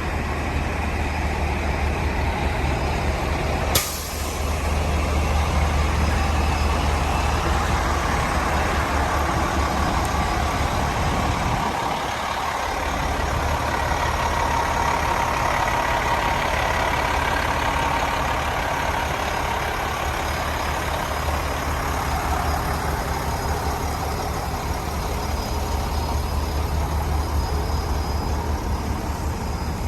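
Heavy diesel truck engine of a 2006 International 7600 chassis, running steadily with an even low throb. About four seconds in there is one sharp click-hiss of air.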